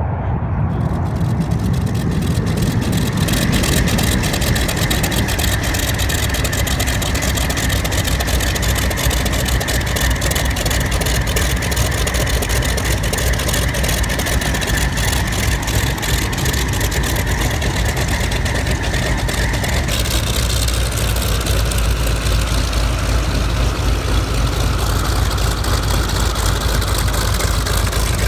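Piston aircraft engine running steadily, heard close up, with a shift in tone about twenty seconds in.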